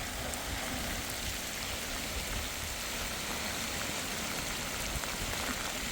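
Steady rain falling, an even continuous hiss without pause.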